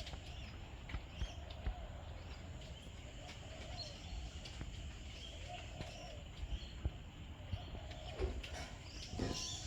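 Outdoor ambience after rain: faint bird calls and chirps over a steady insect hum, with a few small clicks.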